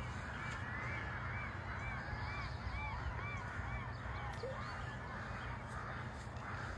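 Canada geese honking: a quick series of short, arched calls, about two a second, that dies away after about four seconds, over a steady low hum.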